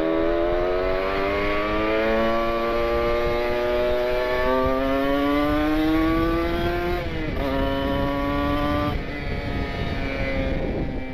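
Kawasaki Ninja 150 RR's two-stroke single, fitted with an R9 aftermarket exhaust, accelerating at half throttle: the pitch climbs steadily, dips briefly at a gear change about seven seconds in, climbs again, then falls as the throttle closes about nine seconds in. Wind noise runs underneath.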